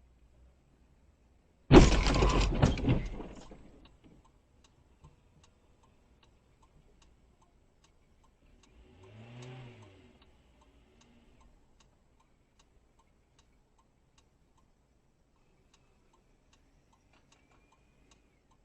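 A car crash impact: one sudden loud bang with crunching that dies away over about two seconds. After it comes faint, regular ticking, and near the middle a brief low pitched sound that rises and falls.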